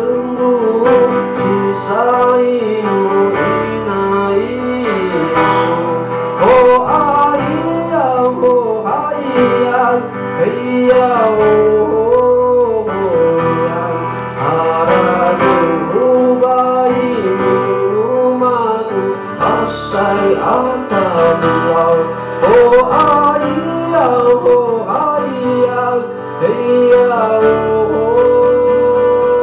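Live music: a man singing a melody over guitar accompaniment.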